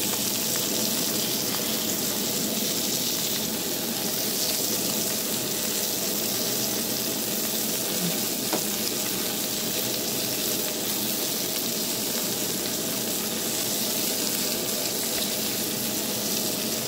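Ground-beef burger patties frying in hot fat and melted margarine in a frying pan, a steady, even sizzle.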